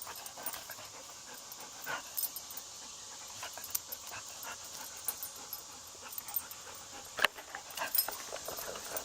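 A dog panting, with scattered small clicks and rustles and one sharper click about seven seconds in.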